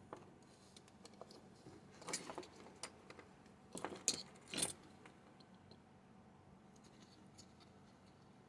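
Small tools and plastic model parts handled on a workbench: a few faint clusters of clicks and light rattles, the loudest a couple of seconds in and again about four seconds in.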